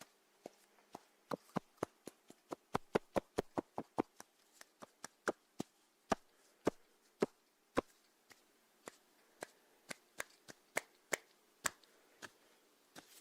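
Snails eating, close-miked: a long run of small, crisp clicks at an uneven pace, thickest in the first few seconds and thinning out later.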